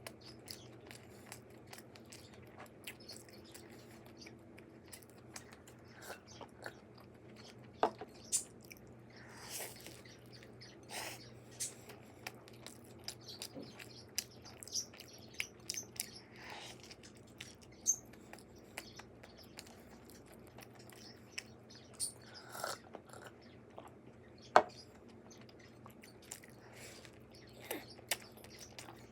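Sparse light clicks, taps and brief crunchy rustles of food and utensils being handled, with a few sharper clicks, over a faint steady hum.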